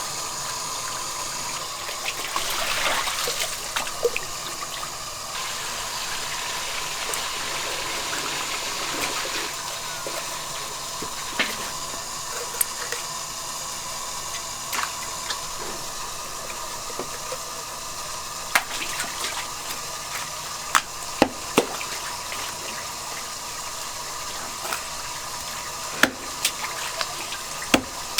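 Water running and splashing steadily, with scattered sharp clicks and knocks through it.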